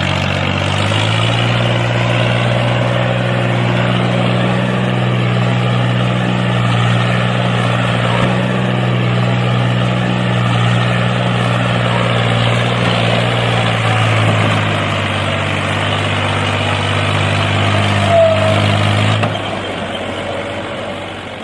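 An engine running steadily at a constant speed with a low, even hum, dying away about nineteen seconds in.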